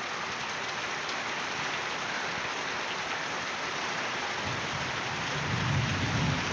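Steady rain falling, an even hiss. A louder low rumble swells up about four and a half seconds in and lasts nearly to the end.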